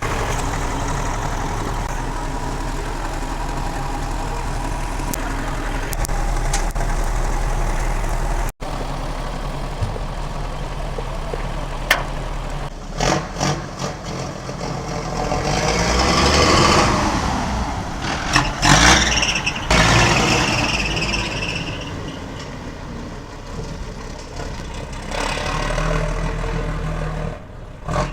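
Heavy truck engine running steadily, then revving up and back down about halfway through, with hissing and a few sharp knocks.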